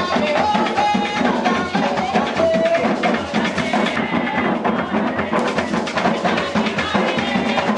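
Puerto Rican bomba drumming: barril hand drums playing a steady, dense rhythm, with a sharp wooden clicking pattern over it typical of the cuá sticks.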